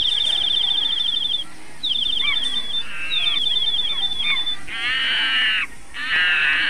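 Birds calling: a very fast, even, high-pitched trill in bursts of about a second and a half, then two harsh, rasping calls of just under a second each, about 5 and 6 seconds in.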